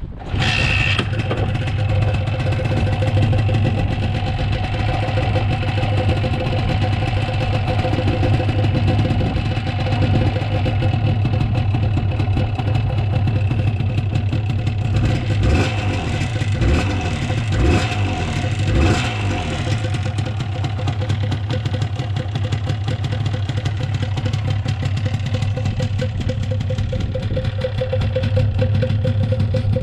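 1983 Suzuki RG250 Gamma Mk1's two-stroke parallel twin firing up, then running steadily at idle, with a few brief blips of the throttle about halfway through.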